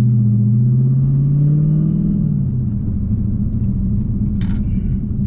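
Dodge Hellcat's supercharged 6.2-litre V8 pulling under acceleration, its pitch rising for about two seconds, then easing off to a steady low rumble as the car cruises on.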